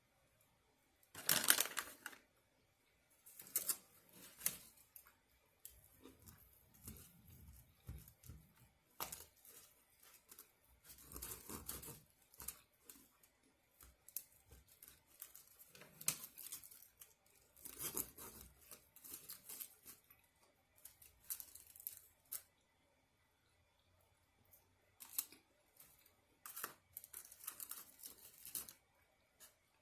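Eating and food-handling sounds: irregular bursts of rustling, tearing and crunching every second or two, the loudest about a second and a half in.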